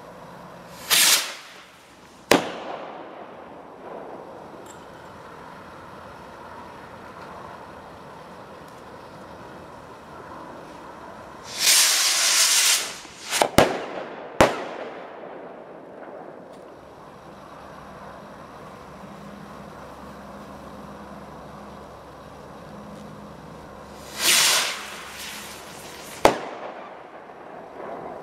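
Firework rockets: three times a short rushing hiss of a launch is followed a second or two later by a sharp bang that echoes away. The middle launch hisses longest and ends in two bangs.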